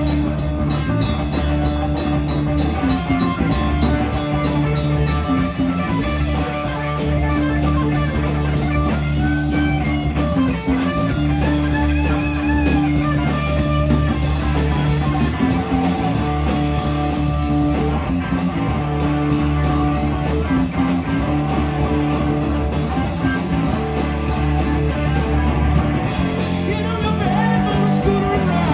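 Rock band playing: electric guitar over bass and a drum kit, continuous and loud.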